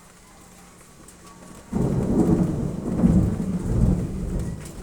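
A sudden thunderclap about halfway in, then loud, deep rolling thunder that swells and eases. Before it, only faint rain.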